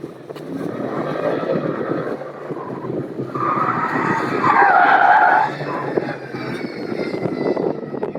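Vehicle tires squealing over engine noise, loudest from about three to five and a half seconds in.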